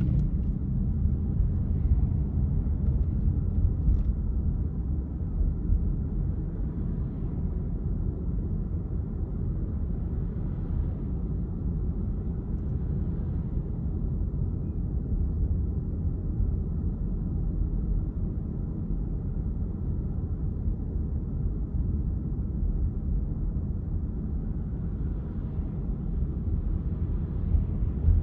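Car driving on city streets: a steady low rumble of road and engine noise.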